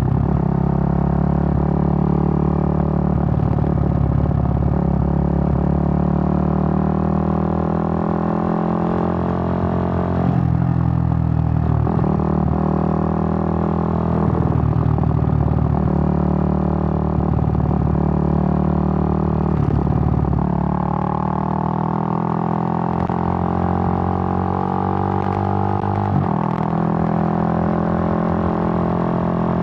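Suzuki GN125's single-cylinder four-stroke engine running on the move, its note shifting up and down with the throttle, with short breaks in the note about 10 and 26 seconds in.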